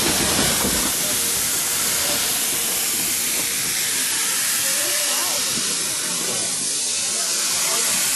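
Narrow-gauge steam locomotive hissing steam steadily.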